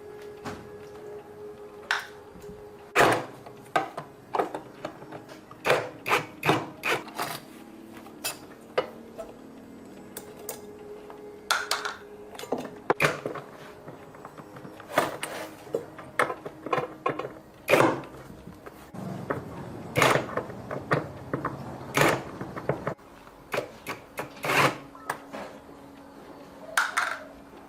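Irregular knocks, clicks and clatter of hand tools and parts being handled while working on a washing machine, with a faint steady hum underneath.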